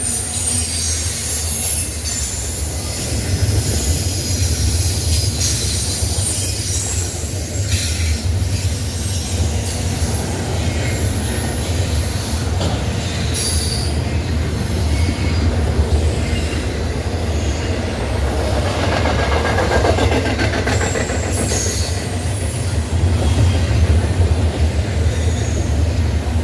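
Freight train cars rolling past with a steady low rumble, their wheels squealing high-pitched against the rails.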